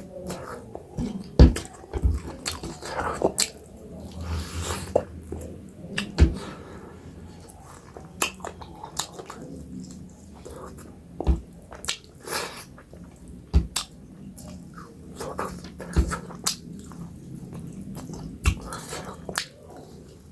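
Close-up eating sounds: chewing, wet lip smacks and sharp mouth clicks, heard as irregular separate bursts over a low steady hum while kodo millet dhido and chicken gravy curry are eaten.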